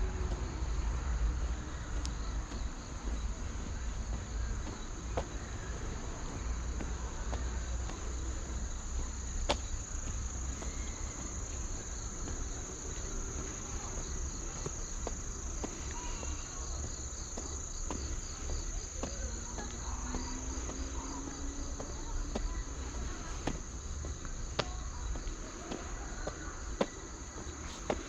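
Crickets chirring in a steady, high, continuous trill, with a faster pulsing chirp joining in for a few seconds midway.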